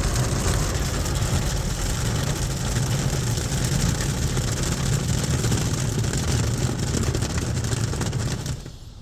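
Ryko Softgloss XS 2 rollover car wash working over the car, heard from inside: a loud, steady rush of water and machinery on the body that stops abruptly near the end.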